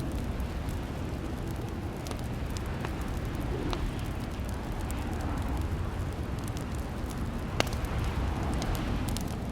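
Wood fire crackling in a fireplace: a steady low rumble with scattered small pops, and one sharper pop about three-quarters of the way through.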